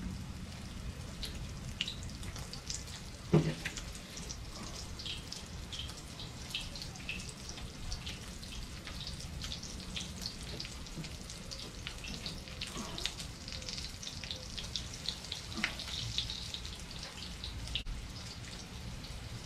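Breaded chicken cutlet frying in hot oil in a cast iron pan, a steady sizzle with scattered crackles and pops. A single sharp knock sounds a few seconds in.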